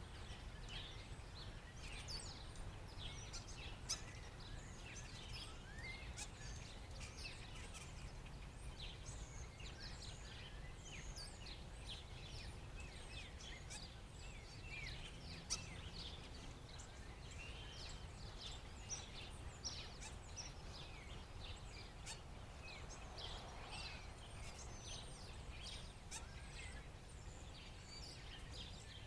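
A flock of black birds calling: many short, overlapping chirps and squeaks throughout, with a couple of sharp clicks.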